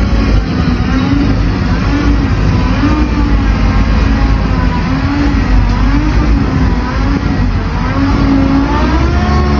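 Loaded truck's engine running hard under load, its pitch rising and falling as it revs.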